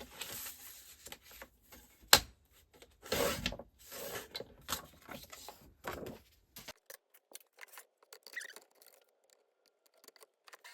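Ivory cardstock being handled and cut: scattered clicks, taps and papery rustles, with one sharp click about two seconds in and lighter ticks later.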